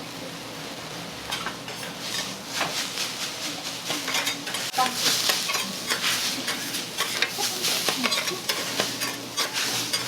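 Metal spatulas scraping, chopping and tapping quickly on a hot iron teppan griddle as food sizzles on it. The clatter and sizzle pick up after about a second and a half.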